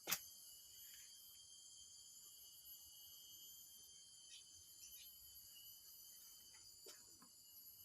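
Near silence with a faint, steady high-pitched hiss, a sharp click right at the start and a few faint ticks later on.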